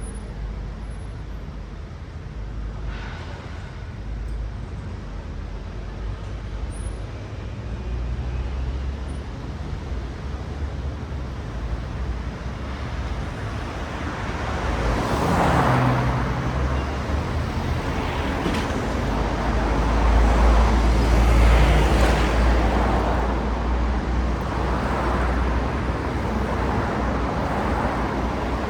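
Road traffic: cars passing, their tyre hiss swelling and fading over a steady low engine rumble. It is quieter at first, then a run of louder passes in the second half, the loudest about three quarters of the way through.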